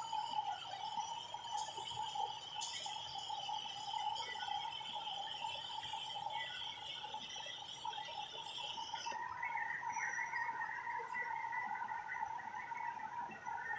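A steady chorus of chirping, like birds and insects, with no talking. A higher chirping layer stops about two-thirds of the way through, and a lower, busier chirping layer takes over.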